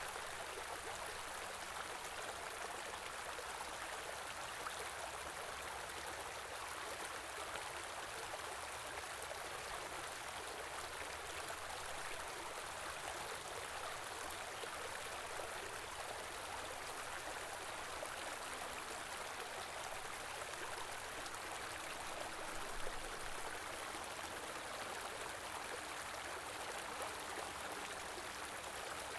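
Small stream flowing over rocks, a steady even rush of running water.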